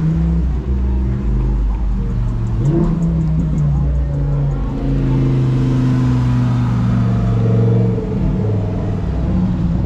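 A motor vehicle's engine running close by: a loud, steady low drone whose pitch rises briefly about three seconds in and drops near the end.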